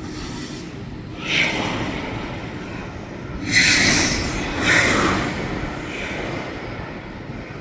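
Outdoor traffic noise: a steady rumble with three louder swells of passing vehicles, about a second in, midway, and shortly after.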